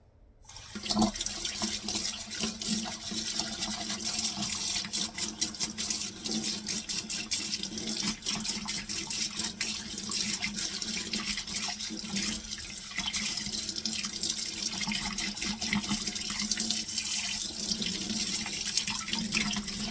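Faucet running into a sink, with water splashing unevenly under the stream. It starts about half a second in.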